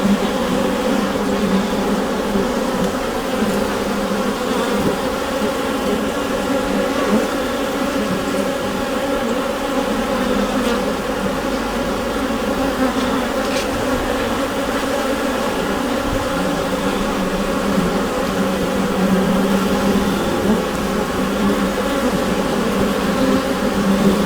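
Honeybee colony humming inside a hive: a steady, dense buzz of many bees, strongest in a low drone around 200 Hz with higher layers above it.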